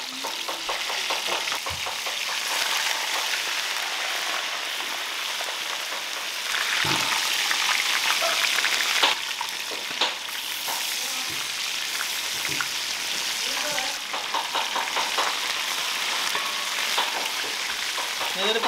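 Banana-leaf fish parcels sizzling in hot coconut oil in a wide pan, with a metal spatula scraping and knocking against the pan as the parcels are turned over once the first side has cooked. The sizzle swells louder for a few seconds in the middle.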